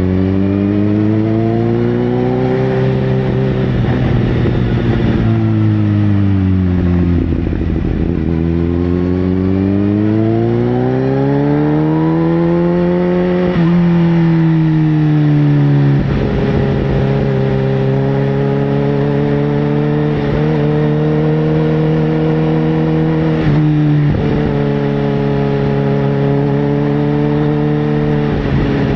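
Sport motorcycle engine under way. Its pitch climbs, drops back, climbs again, then holds nearly steady for the second half.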